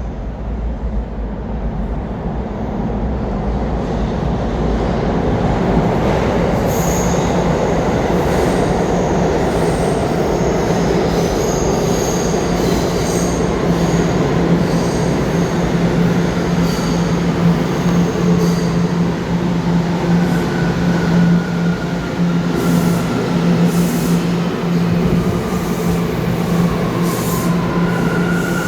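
New York City Subway train running through a station, growing louder over the first few seconds, then a steady low hum under the noise of the wheels on the rails. High wheel squeals come and go, and in the second half a whine slides down in pitch.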